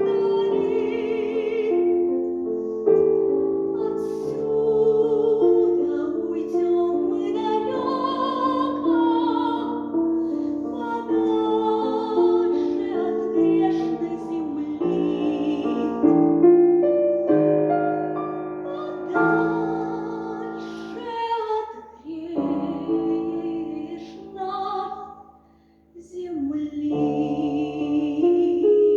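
A female voice singing a classical-style song with vibrato, accompanied by piano. The music drops away briefly about three-quarters of the way through, then resumes.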